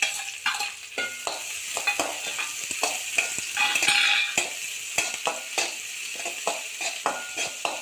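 Chopped onion frying in hot oil with green chillies in a metal wok (kadai), sizzling steadily while a steel spatula stirs it with quick scraping clicks against the pan. The sizzle flares up briefly about four seconds in.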